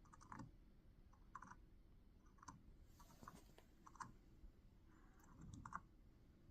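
Near silence with faint, scattered clicks, about one a second.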